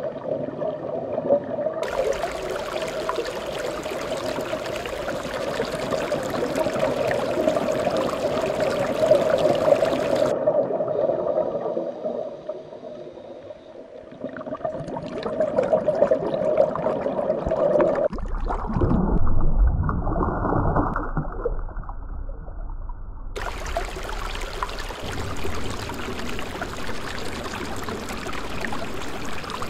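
A run of short water soundtracks that changes abruptly several times: gurgling, rushing water with a steady hum under the aquarium footage, a muffled rumbling stretch, then an even rushing noise like surf over the beach scene.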